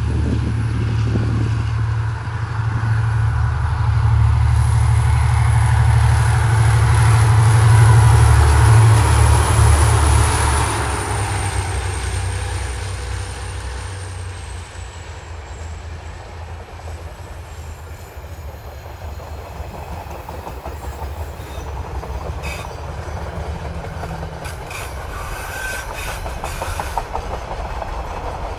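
DFT and DC class diesel-electric locomotives hauling a freight train pass at speed, their engine drone loudest about eight seconds in, with a high whine that falls in pitch as they go by. Then container flat wagons roll past, wheels clacking over the rail joints.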